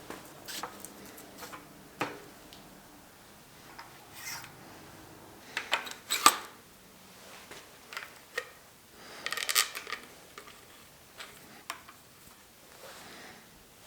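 Metal bike parts and hand tools being handled at a workbench: scattered clicks, clinks and knocks. The sharpest knock comes about six seconds in, and there is a brief rattle around nine seconds.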